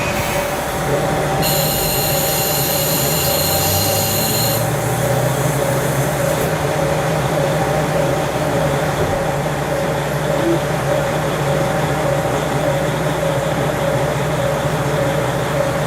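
KiHa 40 diesel railcar running along the line, heard through a fully open window: a steady diesel engine drone with wheel-on-rail noise. Near the start a high squeal rings for about three seconds.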